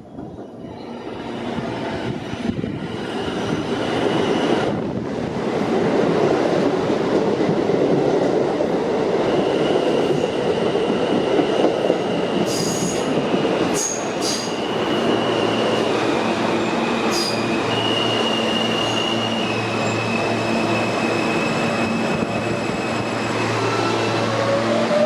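A New York City Subway R160 train running on the rails, growing louder over the first few seconds, then a steady rumble with high-pitched wheel squeals coming and going from about a third of the way in. A steady low hum sets in through the second half.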